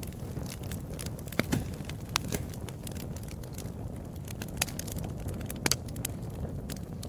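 Wood fire burning in a fireplace: a steady low rumble of flames with irregular sharp pops and crackles of burning logs, a few louder snaps among them.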